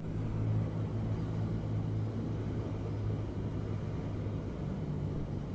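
A steady low engine hum with two constant low tones, over an even rushing noise.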